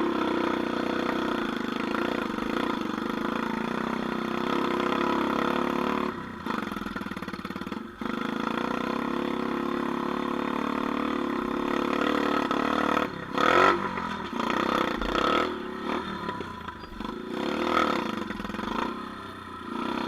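Off-road vehicle engine running steadily, then revving up and down in the second half.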